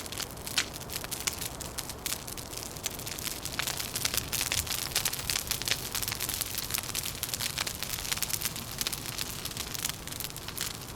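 Wood fire crackling: a dense, steady patter of small sharp pops and snaps over a low, even rumble.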